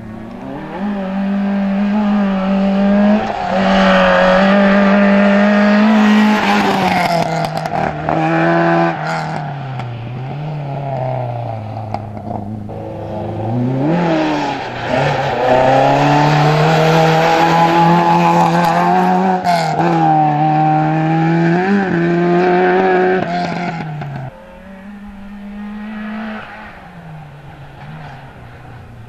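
Race-prepared hatchback's engine driven hard, revving up and falling back again and again as it accelerates out of bends and brakes into them, with sudden pitch drops at gear changes. It is quieter and more distant in the last few seconds.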